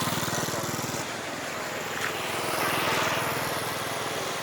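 A small engine running steadily, with a swell of louder noise around three seconds in.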